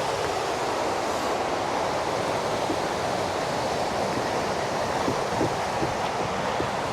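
Fast-flowing river rapids rushing steadily, as an even, unbroken wash of white water.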